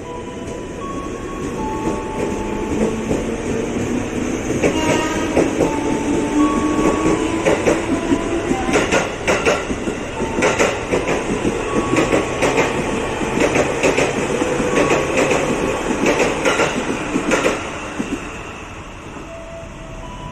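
JR 205 series electric commuter train pulling away. Its motor hum rises in pitch as it gathers speed, and its wheels clack over the rail joints through the middle. The sound dies down near the end.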